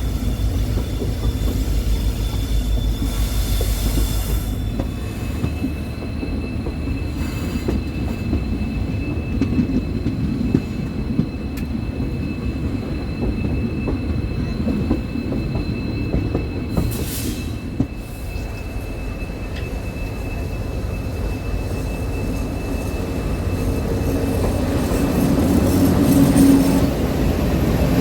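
Train running on the rails: a steady rumble of wheels with a thin, steady squeal of wheels on the rail, growing louder near the end.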